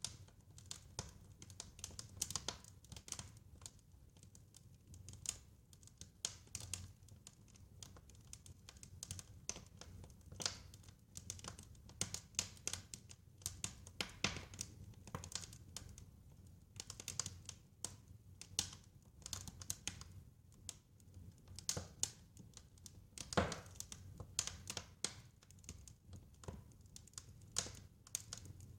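Wood fire crackling in a fireplace: irregular sharp crackles and pops over a faint low rumble of the flames, with one louder pop about three-quarters of the way through.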